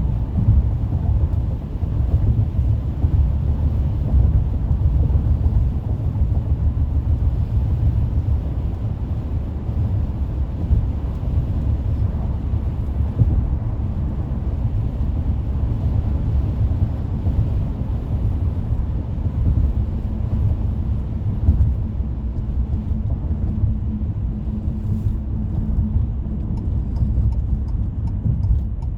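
Car road and tyre noise at freeway speed: a steady low rumble.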